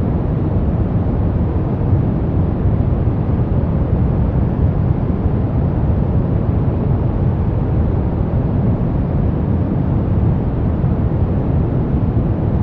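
Brown noise: a steady, even rumbling hiss, strongest in the bass and fading toward the treble.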